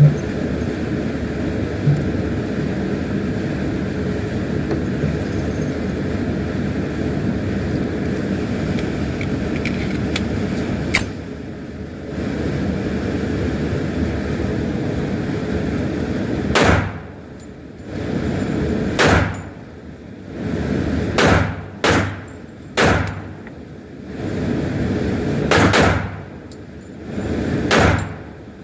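A steady rushing noise for about the first half, then a string of about eight sharp handgun shots, spaced one to three seconds apart.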